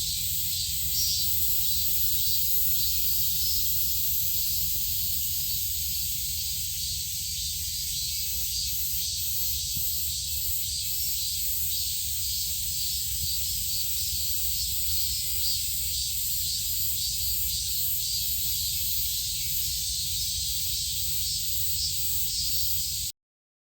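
Steady high insect hiss with a faint rapid pulsing and a low rumble underneath, cutting off suddenly near the end.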